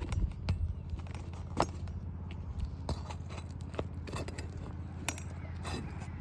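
Scattered sharp knocks, clicks and scrapes of hand tools working asphalt roof shingles, over a steady low hum.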